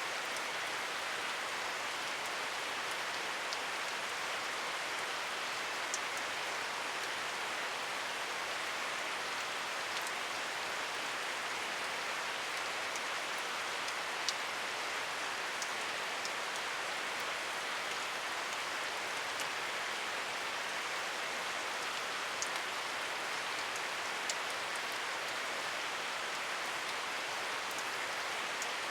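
Steady rain falling, an even hiss with the odd sharper drop tick standing out now and then.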